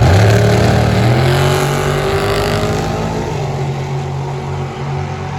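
Drag racing car accelerating hard away down the strip. Its engine note climbs in pitch while the sound steadily fades with distance.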